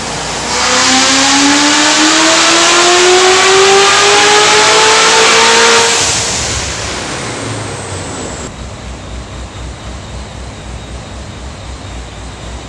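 Car engine making a full-throttle pull on a chassis dyno: the engine note climbs steadily in pitch for about five seconds, then the throttle closes about six seconds in and it winds down with a low rumble.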